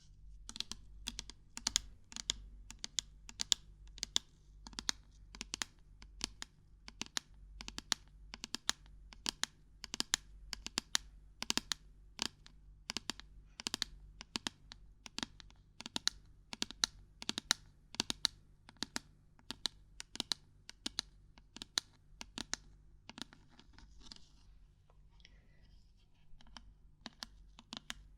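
Irregular light knocking and tapping on hard objects, about two to three sharp taps a second, with a short pause and a faint rustle near the end.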